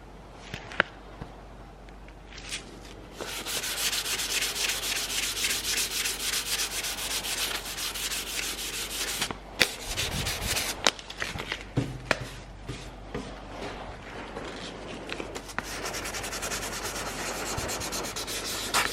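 Sanding of primer on car body metal, a rapid repeated rasping that starts about three seconds in after a few light clicks. It pauses briefly midway, where a few low knocks come through.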